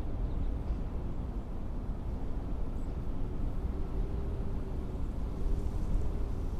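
Blizzard wind blowing in a steady low rumble, with a faint howling tone that comes and goes.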